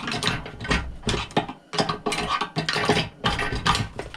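Hand tools working on a chop saw's metal parts: irregular clanks, clicks and scraping as a spring-loaded part is worked loose.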